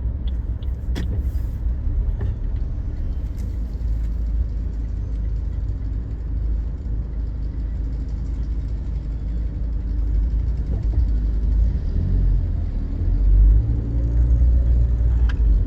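Car moving in traffic: a steady low rumble of engine and road noise, swelling a little near the end.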